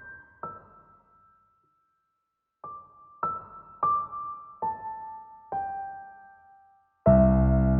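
Background piano music: slow single notes that ring and fade, a short pause, then a few more notes stepping down in pitch, before a louder, fuller passage comes in near the end.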